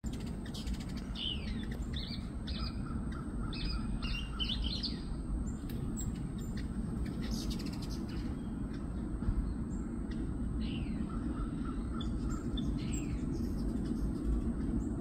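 Birds chirping: clusters of short, high, downward-sweeping chirps come and go, over a steady low background rumble.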